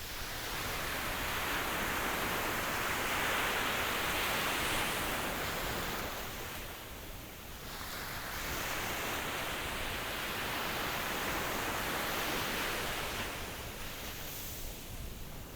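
Ocean waves breaking and washing on the shore: two broad surges of surf, each rising and falling over several seconds, with a brief lull between them.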